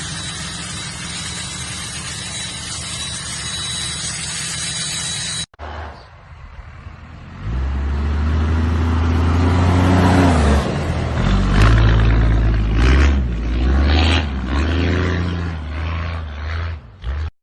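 A steady engine drone with a thin high whine, cut off abruptly; then, after a quieter moment, a truck engine revving hard, its pitch rising and falling as it gets loud.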